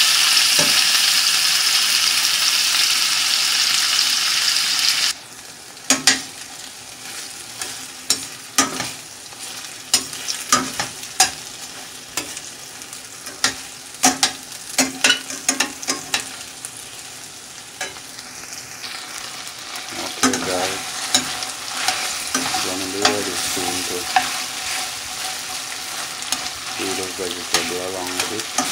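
Chicken pieces frying in oil in a stainless steel pot. A loud sizzle drops suddenly to a quieter one about five seconds in, while metal utensils stir the meat and clink and scrape against the pot many times.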